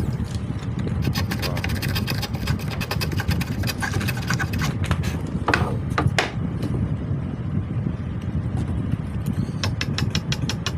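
A small motor runs with a steady low rumble and rapid clicking, which settles into an even ticking of about eight clicks a second near the end.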